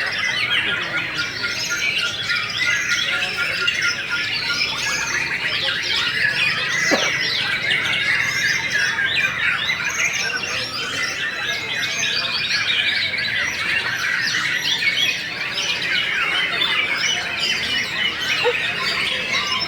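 Many caged white-rumped shamas (murai batu) singing at once in contest: a dense, continuous tangle of overlapping whistles, chirps and rapid trills.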